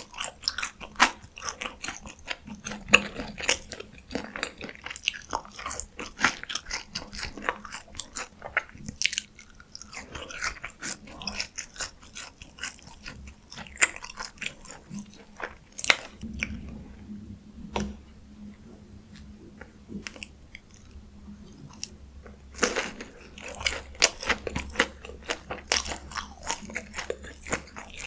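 Close-miked ASMR eating of fast food: steady biting and chewing with many sharp, crisp crunches, easing off briefly twice before picking up again near the end.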